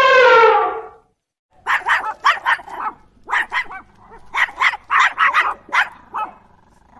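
An elephant's trumpet call ends about a second in. Then a Jack Russell terrier barks over and over in quick runs of short, sharp barks.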